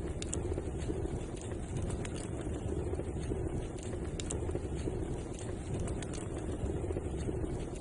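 Wood fire burning in a fireplace: a steady low rush of flame with scattered sharp crackles and pops.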